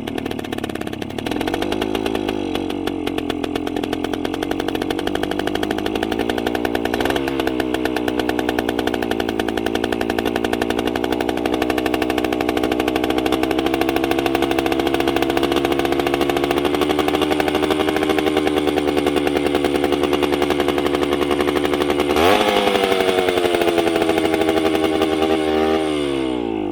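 1973 Yamaha AT3 125's two-stroke single-cylinder engine running again after sitting some 30 years, holding a fast idle with a brief blip of the throttle about seven seconds in. Near the end it is revved sharply once, then winds down as it is shut off.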